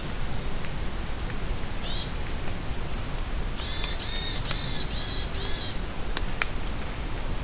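A forest bird calls over steady rain: a couple of short high calls early on, then a run of about five loud, shrill, arching notes in the middle, with scattered drip ticks.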